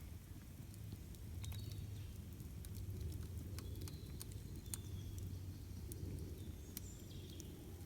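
Campfire burning, with irregular sharp crackles and pops over a low steady rumble. A few brief high bird chirps come through now and then.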